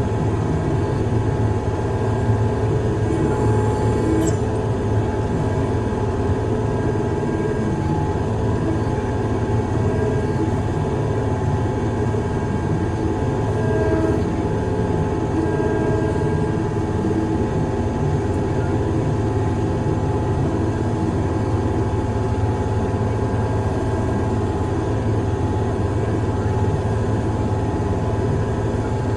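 Heavy diesel engine of a piece of construction equipment running steadily, a constant low drone with no change in speed.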